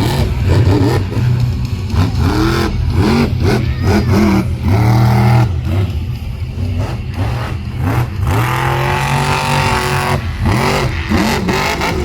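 Monster truck engine revving hard, its pitch swooping up and down again and again over a steady low rumble.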